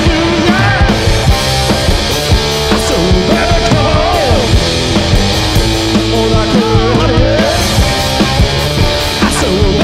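Live garage-rock / punk-blues song played loud by a two-piece band, with drum kit and guitar keeping a steady, driving beat.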